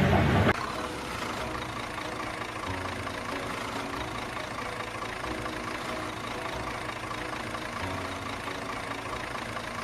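A small truck's engine idling steadily, after a louder sound cuts off about half a second in.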